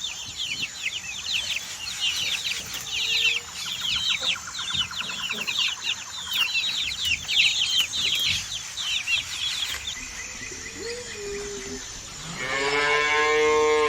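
Many birds chirping in a dense, rapid chatter of short high calls, fading out about ten seconds in. Near the end a cow gives one long low moo, about a second and a half long.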